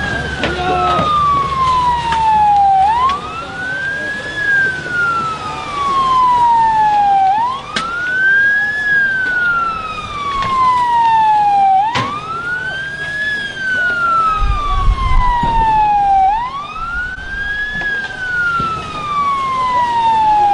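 Police siren on a slow wail: the tone rises quickly, then falls slowly, repeating about every four and a half seconds. A brief low rumble comes about two-thirds of the way through.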